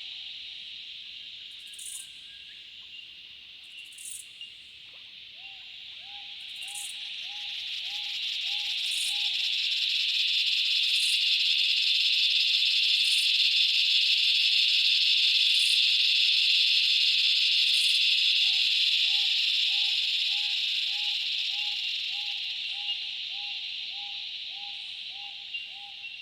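Razor Grinder cicadas (Henicopsaltria eydouxii) calling in chorus: a loud, hissing drone that swells to a peak and slowly fades again. A lower call repeats about two or three times a second beneath the drone, dropping out while the drone is at its loudest.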